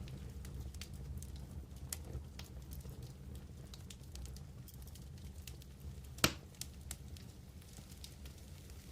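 Wood campfire crackling: scattered small pops and clicks of burning wood over a low steady rumble, with one louder sharp pop about six seconds in.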